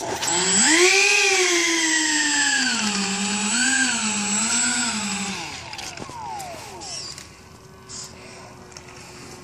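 Electric ducted-fan motors of a Windrider Boeing 777 RC jet whining under throttle: the pitch climbs quickly, sinks slowly and wobbles up and down as the throttle is worked, then falls away as they spool down about five seconds in.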